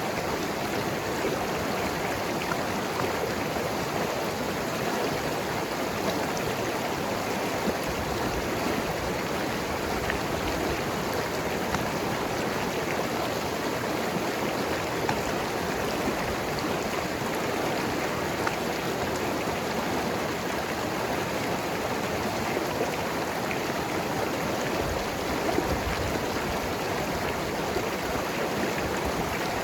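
Mountain river flowing and tumbling over rocks: a steady rush of water with irregular small gurgles and splashes.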